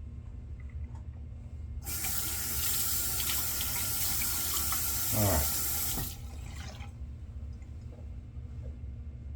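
Sink tap turned on, water running into the basin for about four seconds, then shut off, with a brief falling gurgle shortly before it stops.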